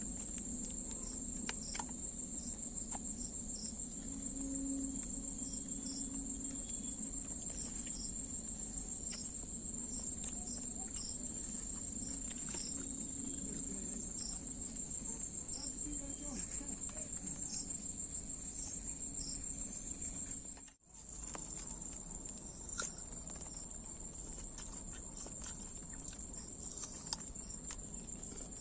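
Insects, crickets or similar, chirring in a steady high drone, with a fainter chirp repeating a little more than once a second. The sound drops out for a moment about two-thirds of the way through.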